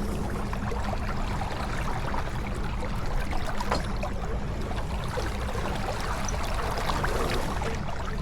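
Water rushing and splashing along the hull of a J24 keelboat under sail: a steady hiss sprinkled with small splashes.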